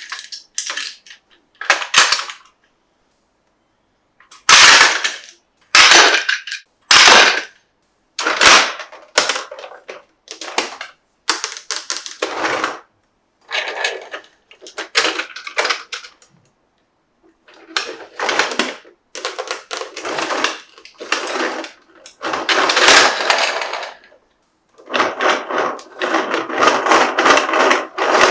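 Plastic toy packaging and parts being handled, crinkling and clicking in many short crackly bursts with brief silent pauses between them.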